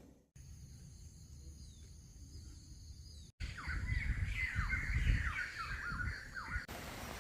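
Birds calling in the second half: a quick string of short, falling chirps for about three seconds, over a low wind rumble on the microphone.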